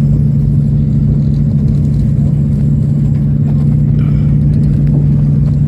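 Convair CV-340's twin Pratt & Whitney R-2800 radial piston engines and propellers droning steadily, heard from inside the passenger cabin in flight, while the left engine is on fire.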